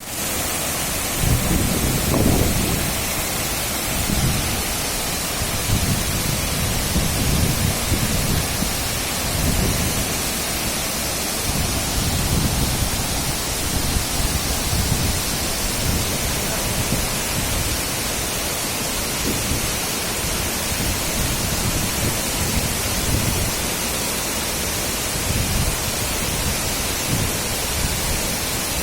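A waterfall's steady rush of falling water, with uneven low rumbling underneath.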